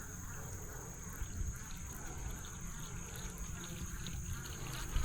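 Insects droning in a steady, even high-pitched buzz, over a low rumble.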